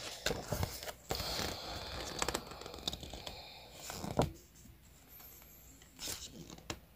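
Packaging being handled during an unboxing: a stretch of rustling, crinkling and tearing for about three seconds, with a few sharp clicks and knocks, then quieter handling near the end.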